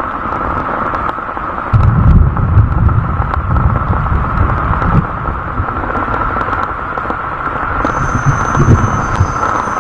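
Steady hiss of heavy rain, with low, uneven rumbling from wind buffeting the microphone starting about two seconds in.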